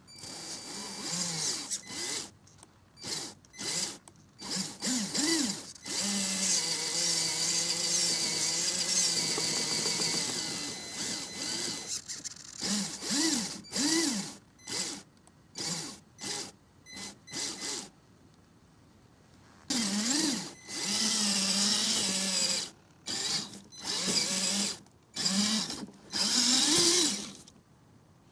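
Electric motor and geared drivetrain of a Vaterra Chevrolet Blazer K5 RC crawler whining in short throttle bursts that rise and fall in pitch, with a few longer steady runs.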